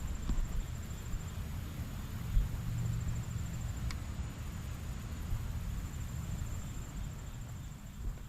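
Wind buffeting the microphone, a steady low rumble, with an insect's high trill going on and off in the background and a few light clicks.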